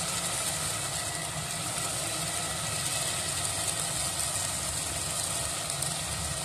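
Tomato masala sizzling and simmering in a nonstick pan while cracked eggs are poured in, over a steady low hum.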